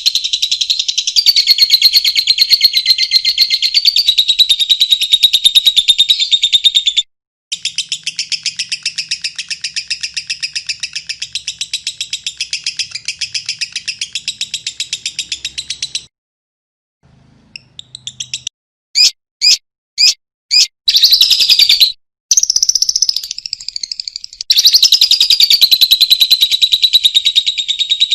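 Lovebird singing a long, fast chattering trill of rapid high chirps, broken by two brief silences and a run of five short bursts about two-thirds of the way through.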